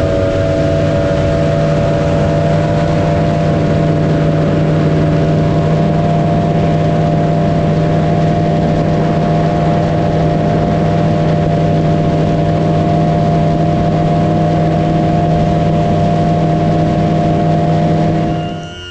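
Motorboat engine running at a steady, constant high throttle, then throttled back sharply near the end to a much quieter low-speed run.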